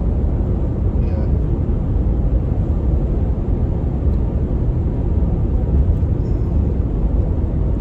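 Truck driving on the road: a steady low rumble of engine and tyre noise.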